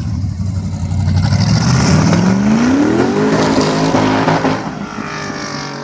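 Competition car accelerating hard past, its engine revs climbing steeply, then an upshift and another climb. Loudest in the middle, it fades as the car moves away near the end.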